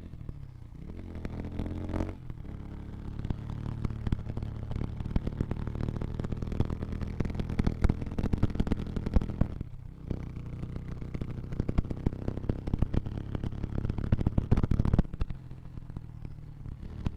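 Motorcycle engine running on the move, its pitch rising and falling with the throttle, with a lot of rattling clatter over it. The engine note drops away briefly about ten seconds in.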